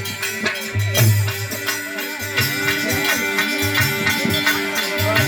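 Live folk music between sung verses: a drum beating, a shaken rattle-like percussion, and steady held tones under a wavering melody line.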